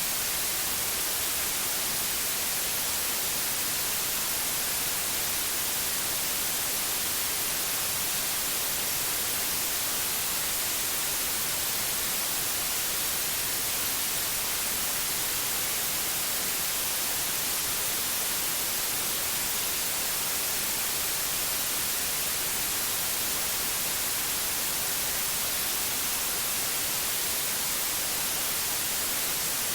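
Steady white noise: an even, unbroken hiss that is strongest in the highs and never changes.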